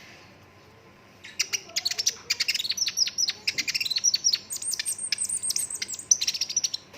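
Sunbird song: a rapid, unbroken run of sharp high chirps and quick down-sweeping notes, starting about a second in and running on in a dense burst. This is the nonstop 'gacor' singing used as a tutor song.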